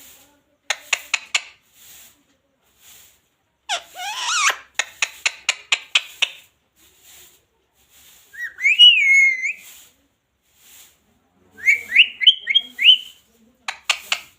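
Indian ringneck parakeet calling. It gives short sharp chirps, a harsh squawk followed by a run of clipped chirps, a drawn-out wavering whistle midway, and a quick series of rising chirps near the end.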